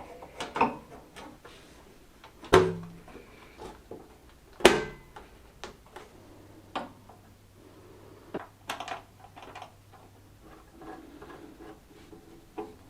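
Workshop handling sounds: scattered clicks and knocks of tools and small parts on a workbench, with two louder knocks about two seconds apart early on and a faint low hum for a few seconds in the middle.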